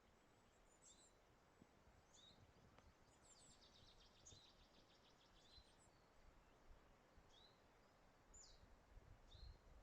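Near silence: faint outdoor ambience with small songbirds giving short high chirps every second or so and a quick rapid trill about three to six seconds in. A soft low rumble rises near the end.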